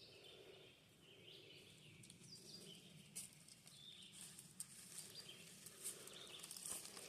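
Near silence with faint bird chirps and a few faint ticks.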